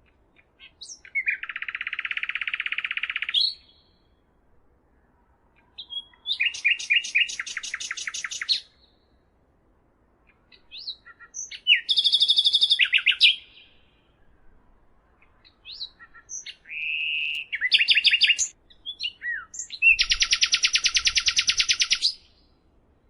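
A songbird singing five phrases with short pauses between them, each opening with a few quick notes and running into a rapid, even trill about two to three seconds long.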